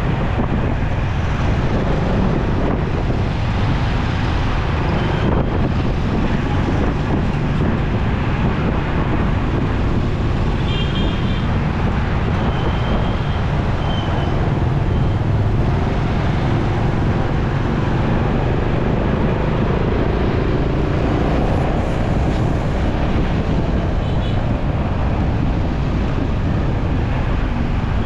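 Wind buffeting the microphone and the steady rumble of city traffic on a moving motorcycle, with a few short high horn beeps from other vehicles partway through.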